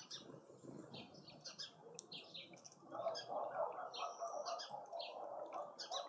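Small birds chirping in quick, short, high notes, joined about halfway through by a louder, lower busy chattering.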